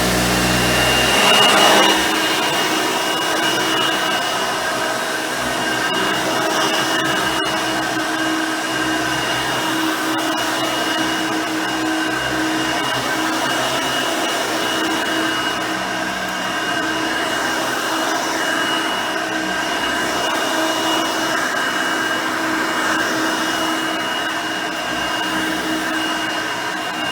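Hoover Elite High Performance vacuum cleaner, with its 5-amp motor and 9-blade fan, running steadily while vacuuming. Its motor gives a steady high whine over a loud rush of air.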